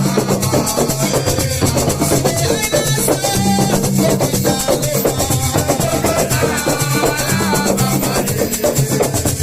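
Live band music driven by dense drums and shakers, over a steady repeating bass line, with no singing.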